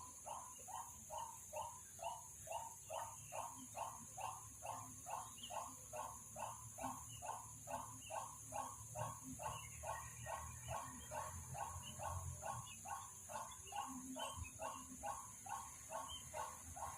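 An animal calling over and over in a steady, even rhythm, about three calls a second.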